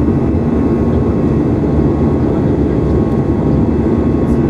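Jet engine noise of an Airbus A320-214 heard from inside the passenger cabin after takeoff: a loud, steady rumble with a few constant hums running through it.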